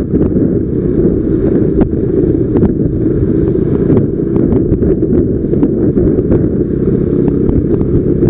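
Strong wind buffeting the microphone: a loud, steady low rumble with a few faint clicks.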